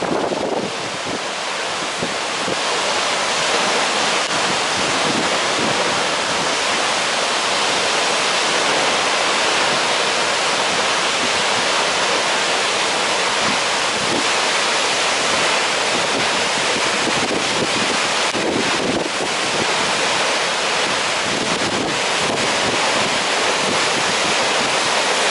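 Hardraw Force, a 100 ft single-drop waterfall, rushing in a steady, loud roar of falling water.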